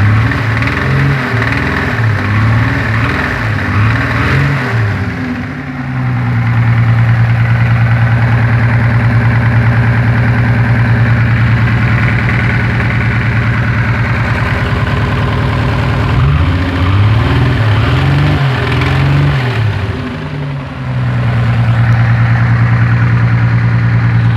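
Toyota Supra's 7M straight-six engine idling and being revved twice, with a noise that the owner questions as rod knock but thinks comes from under the valve cover. The revs rise and fall at the start and again about two-thirds of the way through, settling back to a steady idle in between.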